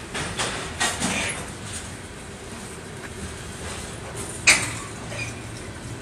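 Freight cars of a very slow sand train rolling past over the rails, with a steady rumble and several sharp metallic clanks and squeals from wheels and couplers, the loudest about four and a half seconds in.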